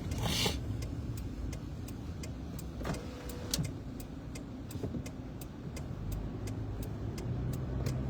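Car driving, heard from inside the cabin: a steady low engine and road rumble with many light ticks and a brief hiss just after the start.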